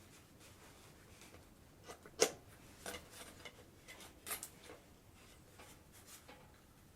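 Scattered light clicks and taps of handwork, with one sharper click about two seconds in.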